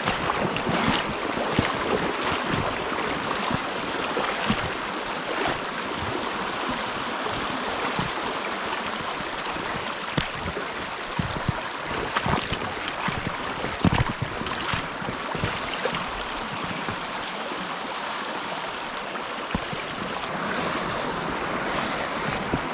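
Creek water running steadily, with scattered short knocks and thumps; the loudest comes about fourteen seconds in.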